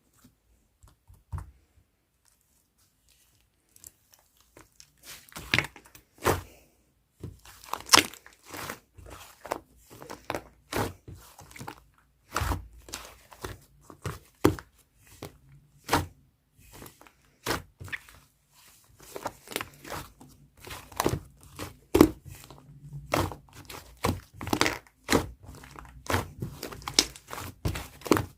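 Fluffy clay-slime being kneaded and mixed by hand: irregular sticky clicks and pops, sparse for the first few seconds and then coming steadily, about two a second.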